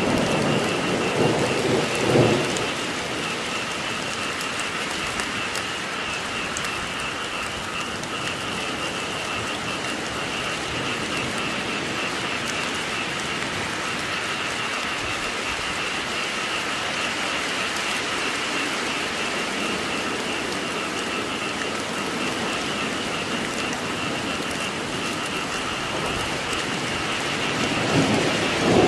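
Steady rain with a continuous chorus of frogs calling underneath. Two short rumbles of thunder come in the first two seconds and near the end.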